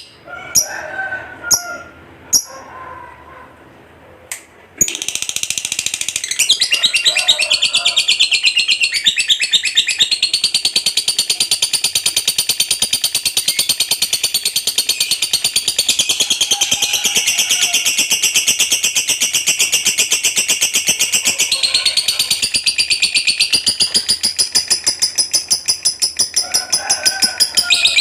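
Lovebird singing its long 'ngekek' song: a few short high chirps, then from about five seconds in a rapid, chattering high-pitched trill that runs on without a break.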